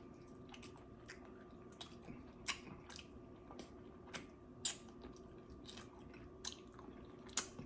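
Close-miked chewing while eating: faint wet mouth smacks and clicks at irregular intervals, a few louder ones about two and a half and four and a half seconds in, over a low steady hum.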